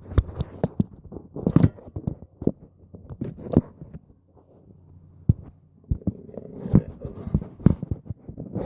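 Camera handling noise: irregular knocks, clicks and scrapes close to the microphone as the camera is moved and set in place, with a quieter spell about halfway through.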